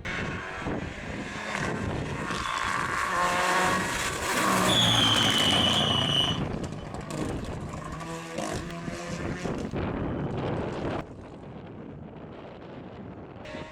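Rally car at full throttle on a stage, its engine revving up through the gears to its loudest pass about five seconds in, with a high steady whine over it. It then keeps revving more faintly before the sound drops away suddenly near the end.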